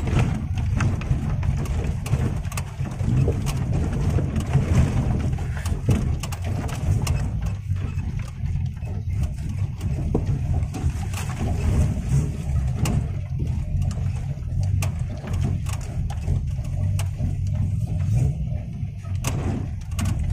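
An off-road 4x4's engine running steadily with a low rumble, with scattered short knocks and clicks over it.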